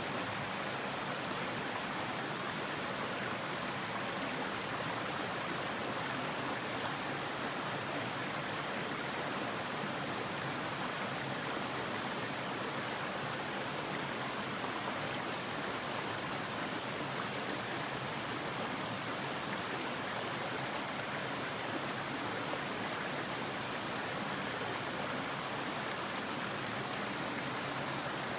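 Forest valley stream water rushing steadily over rocks, with a steady high-pitched hiss above it.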